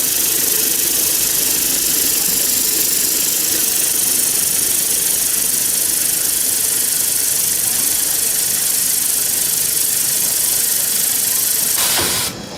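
Keensaw KCS-120B CNC billet saw running and cutting solid round steel bar: a steady, hissing machining noise over a steady hum, cutting off abruptly near the end.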